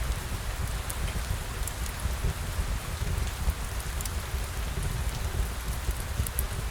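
Steady rain falling, with a low rumble underneath and scattered sharp drip clicks.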